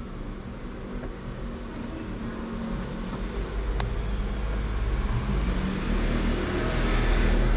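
Hitachi SF-150TCV top-loading washing machine spinning up in its spin cycle: a loud rumbling whir that grows steadily louder, with one sharp click about four seconds in. The owner finds the noise from inside the drum abnormally loud during spin.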